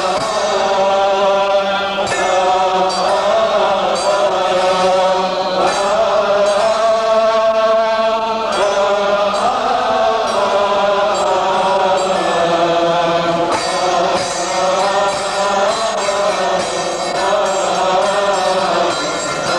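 Coptic liturgical chant: one long melismatic passage, its notes held and slowly shifting from one to the next.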